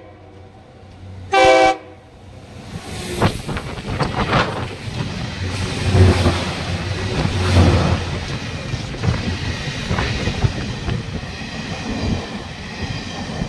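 A short horn blast from the BEML rail grinding train about a second and a half in, then the train passing close by: engine noise and wheels clattering over the rails, growing louder and staying loud as the cars go by.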